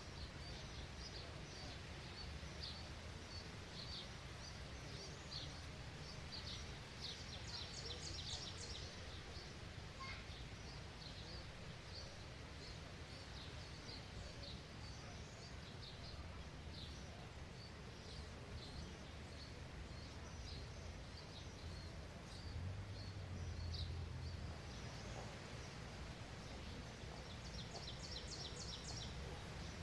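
Several small songbirds chirping over and over, with a quick run of repeated notes about eight seconds in and again near the end, over a steady low outdoor rumble.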